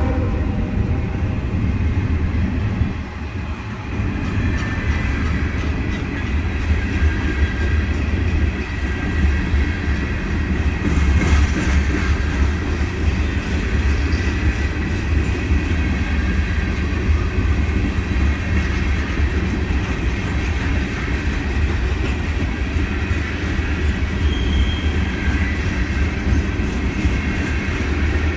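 Norfolk Southern mixed freight train rolling past: a steady low rumble of the freight cars on the rails, with faint clicks of wheels over rail joints.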